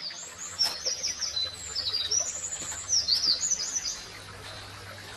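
A songbird sings a fast run of short, high, sliding notes that stops about four seconds in. There is a single sharp click early on.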